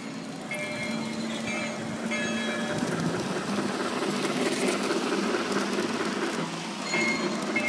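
A small backyard railroad train running along its track, with a steady low hum.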